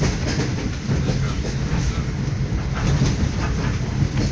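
Train running, heard from inside the passenger carriage: a steady low rumble with a few scattered wheel clacks.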